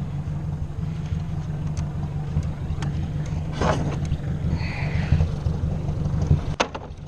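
Ford 600 tractor's four-cylinder engine running steadily at idle, with a couple of sharp knocks, one about midway and one near the end.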